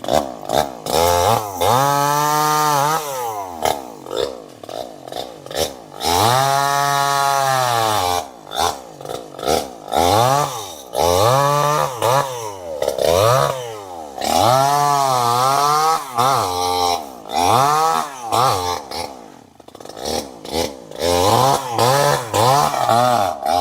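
Chainsaw engine revved over and over, its pitch climbing as the throttle opens and falling back each time, in a mix of longer runs and short quick blips.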